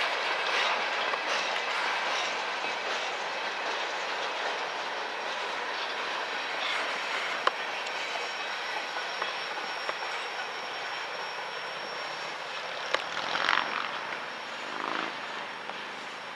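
Freight train cars rolling past on the rails, a steady rumble of wheels with sharp clicks over rail joints and a thin high wheel squeal through the middle. The sound slowly fades toward the end.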